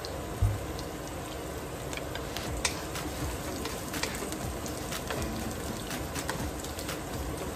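Chopped onions, ginger and garlic sizzling with a steady crackle in oil in a nonstick wok, with light clicks of a wooden spatula stirring them. A soft knock about half a second in.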